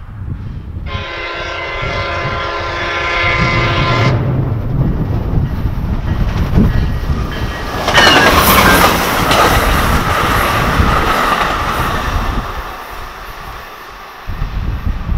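MARC commuter train's diesel locomotive sounding its multi-tone horn for about three seconds as it approaches, then passing close by: a loud rush of engine and wheels on the rails that peaks about eight seconds in and fades as the coaches go by.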